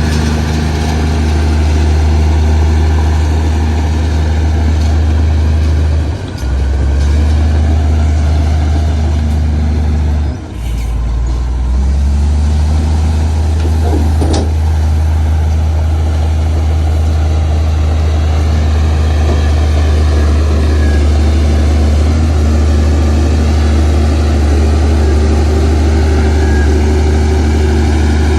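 Heavy diesel earthmoving machinery running steadily under load, with a low engine note that drops briefly twice, about six and ten seconds in. A short, sharp sound cuts through about fourteen seconds in.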